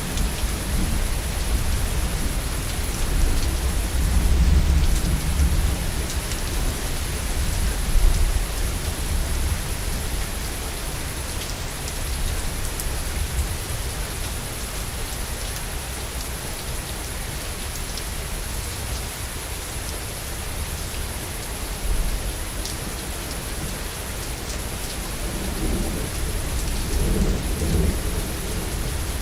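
Heavy rain falling steadily, with rolls of low thunder rumbling about four seconds in and again toward the end.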